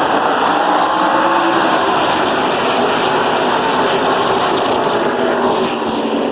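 A pack of NASCAR Truck Series race trucks' V8 engines running hard together, loud and steady, with several engine pitches wavering over each other.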